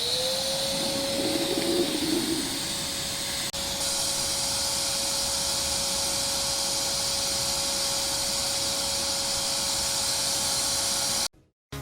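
AmazonBasics 1400 W wet and dry vacuum cleaner switched on: its motor spins up with a quick rising whine, then runs steadily with a high airflow hiss. The sound cuts off suddenly near the end.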